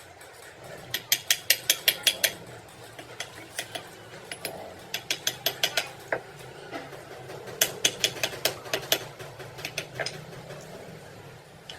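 A hand ratchet wrench clicking in several quick runs of sharp metallic clicks, as a nut or bolt on a semi-truck wheel hub is turned. A faint low hum runs underneath.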